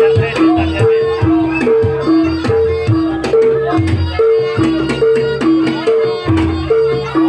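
Javanese trance-dance gamelan music: two pitched gong notes alternate steadily about twice a second over low drum strokes, with a wavering melody line above.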